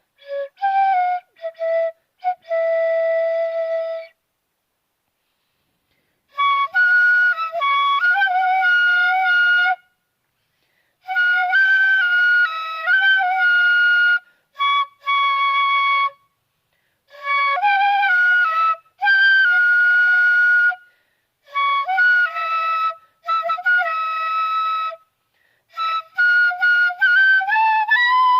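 Flute played freeform by a beginner, in short phrases of stepping notes broken by brief pauses. The player judges that some notes come out off-key, flat or sharp.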